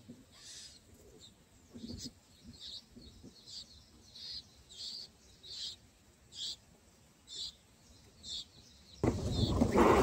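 Bulbul chirps at the nest: short, high chirps about once a second. A sudden, much louder rush of noise starts near the end.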